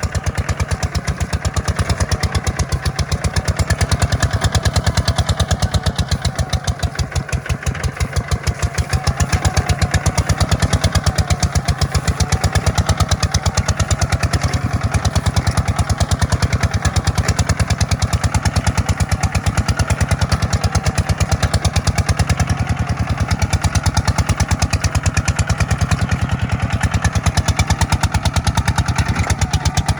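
Kubota tractor's diesel engine running steadily while plowing, with a fast, even chugging pulse and a brief easing in level about eight seconds in.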